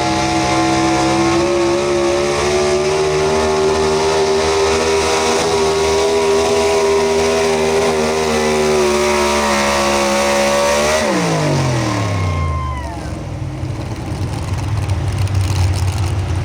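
Pro stock 4x4 pulling truck's engine held at high revs under load, steady with a slight rise in pitch, then dropping sharply about eleven seconds in as the throttle is let off, falling to a low idle.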